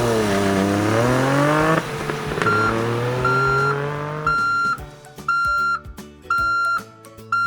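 A pitched engine-like hum that dips and then rises in pitch, followed by a vehicle's reversing beeper sounding about once a second, six times.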